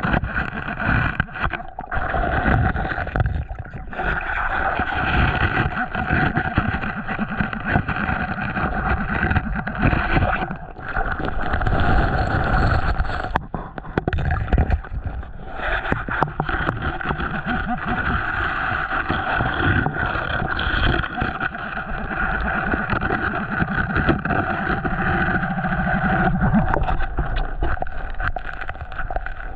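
Muffled water movement and handling rumble, with a steady hum running through it and occasional knocks.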